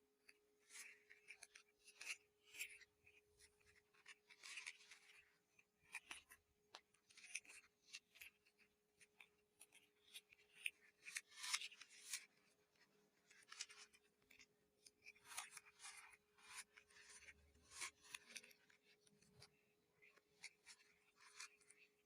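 Kittens eating dry cat food: irregular, faint crunching and clicking of kibble being chewed, in short bursts, over a faint steady hum.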